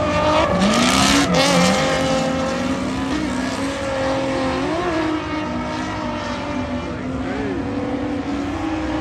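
Drift cars' engines revving up and down, several engine pitches rising and falling at once, with a loud rush of noise about one to two seconds in.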